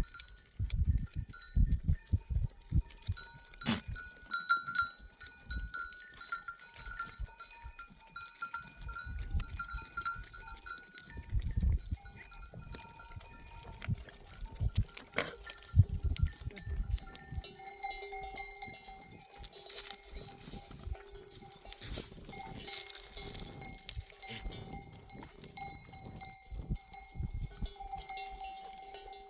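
Bells worn by a flock of sheep, clanking and ringing on and off as the animals move, several bells at different pitches sounding together, over a run of low thuds.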